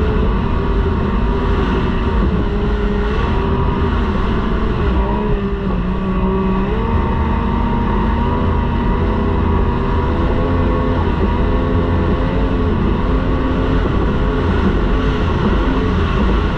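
T-850 class racing outboard engine running at high revs, heard from onboard the boat. Its pitch wavers slightly, dips briefly about five seconds in, then climbs back.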